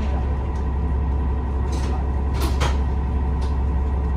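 Inside a KiHa 47 diesel railcar under way: the diesel engine and running gear drone steadily, with a few sharp clicks of the wheels over rail joints, two of them close together.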